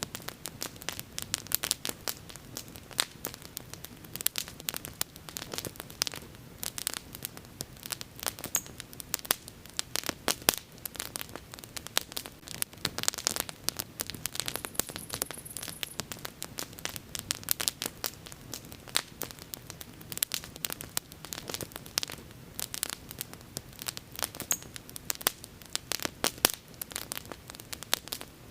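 Wood bonfire crackling, with a steady run of irregular sharp pops and snaps over a faint low rumble of burning.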